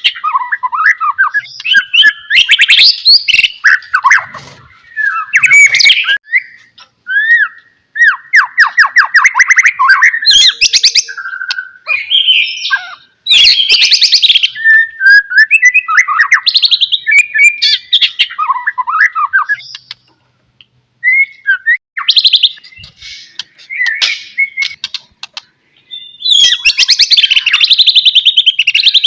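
White-rumped shama singing a long, varied song of clear whistled phrases, fast trills and harsh rattling notes, with a brief pause about two-thirds of the way through. This is the loud, full song of a shama in top form.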